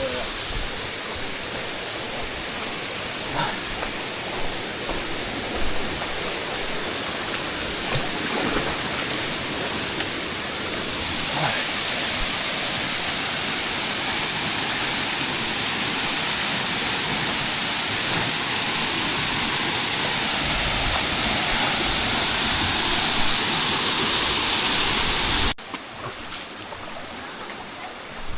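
Rushing water of a waterfall: a steady hiss that grows louder about a third of the way in, then cuts off suddenly near the end to a quieter rush of water, with a few faint knocks along the way.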